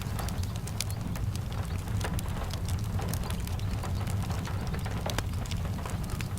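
Steady rain with a low rumble underneath, dotted with frequent sharp crackles and pops from a wood fire.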